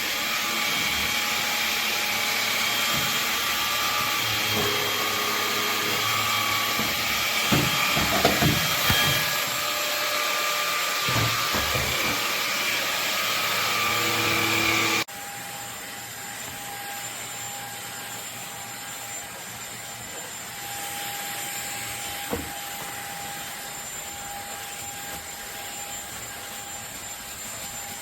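Cordless stick vacuum cleaner running with a steady high whine, with a few low knocks partway through. About halfway it drops suddenly to a quieter, lower-pitched hum.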